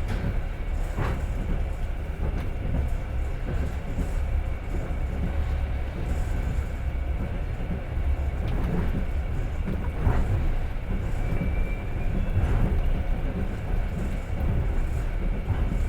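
Passenger train carriage running on rails: a steady low rumble with occasional sharp clacks of the wheels over the track.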